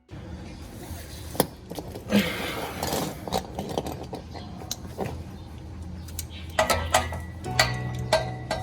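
Scattered light metallic clinks and clicks over a low steady hum.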